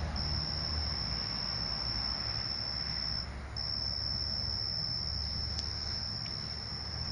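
Crickets trilling steadily at one high pitch, breaking off briefly about three seconds in, over a low steady rumble.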